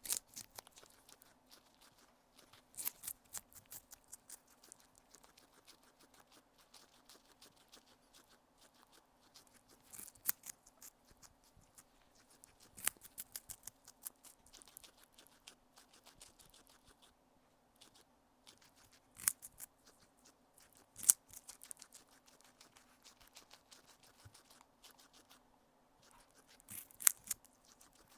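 Guinea pig chewing and crunching food right at a small microphone: clusters of rapid, crisp crunches every few seconds, with a faint steady hum underneath.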